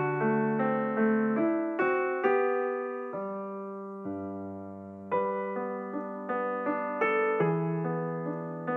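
Background piano music: slow struck notes and chords, each fading after it is played, with one long chord dying away for about two seconds in the middle before the playing picks up again.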